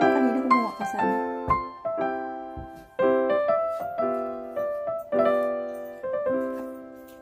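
Background piano music: chords and single notes, each struck and left to fade, dying away near the end.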